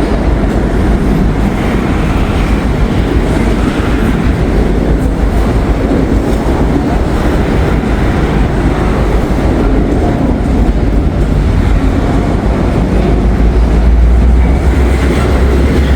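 Freight train moving close by: a steady heavy rumble of locomotive and rolling cars with wheels running on the rails, growing louder near the end.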